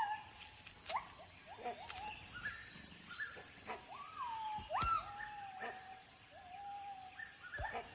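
Gibbons calling: repeated rising whoops that swoop up sharply, some then held as long level notes, with a couple of brief thumps.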